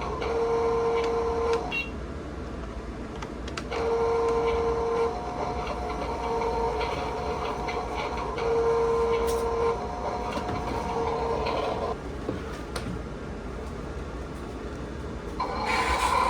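Small electric motors and gearing of an RC cement mixer truck whirring, starting and stopping several times, with a steady whine that cuts in and out in runs of a second or more.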